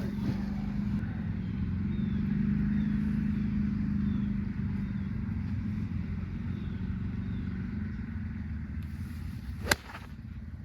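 An engine running steadily with a low hum, swelling over the first few seconds and slowly easing off. Near the end comes a single sharp crack of a golf iron striking the ball on an approach shot.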